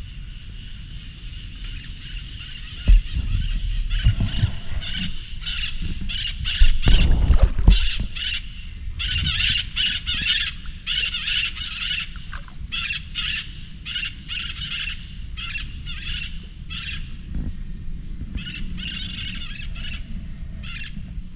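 Birds calling again and again in short, high calls over a low rumble, with a louder thump about three seconds in and a louder stretch of rumble around seven seconds in.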